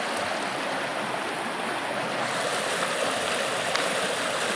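A stream rushing steadily, a constant even wash of running water.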